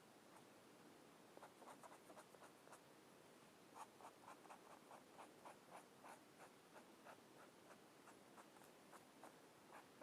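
Faint, quick strokes of colouring on paper, repeating about three or four times a second. They start about a second and a half in, with a short pause near three seconds.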